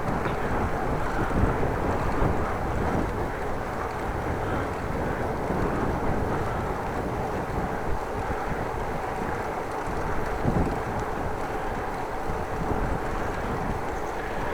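Headwind rushing over the microphone on a moving bicycle: a steady noise that barely rises or falls.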